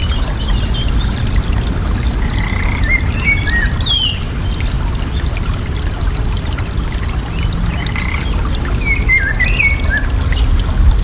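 Flowing water running steadily, a loud rushing trickle heaviest in the low end. Songbirds chirp in short twittering phrases over it, a few near the start, more about two to four seconds in, and again around eight to ten seconds.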